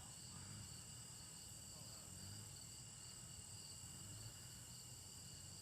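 Faint steady chirring of crickets, an even high insect drone over low background noise.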